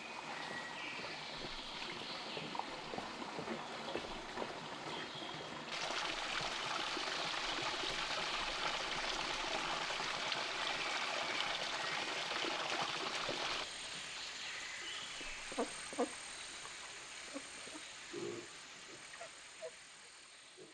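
Steady outdoor background noise, an even hiss with no clear pitch, that jumps louder abruptly about six seconds in and drops back about fourteen seconds in, with a few short knocks near the end.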